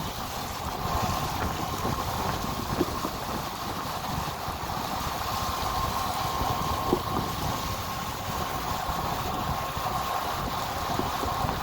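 Tropical-storm wind buffeting the microphone in irregular gusts over a steady rushing noise, with a thin steady tone running underneath.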